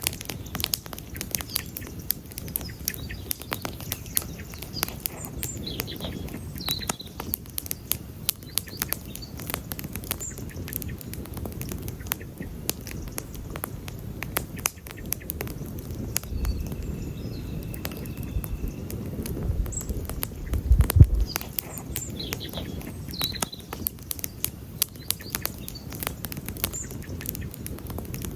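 Wood campfire crackling steadily with many sharp pops, while small birds chirp now and then. A low rumble swells midway, loudest about three-quarters of the way through.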